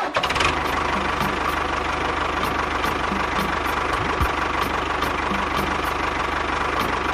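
A small tractor-type engine running steadily at idle, with a fast, even low chugging.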